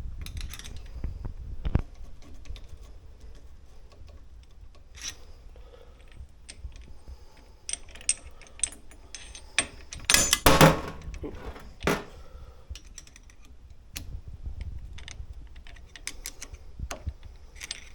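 Small metal parts and hand tools clicking and clinking while a dirt bike shock's clip and seal head are worked into place. The clicks are scattered and irregular, with a louder cluster of knocks about ten seconds in and one more sharp knock shortly after.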